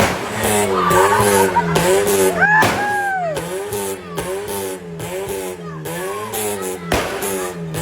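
Car engine, likely a Tofaş Şahin, revved over and over, its pitch rising and falling about twice a second, with a short high squeal about three seconds in.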